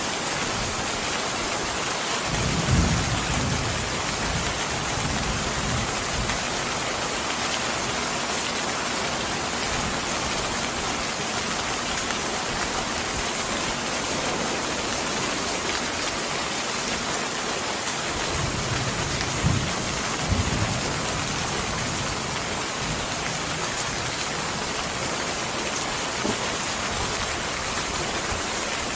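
Steady rain falling, an even hiss throughout, with two brief low rumbles: one about three seconds in and another around twenty seconds in.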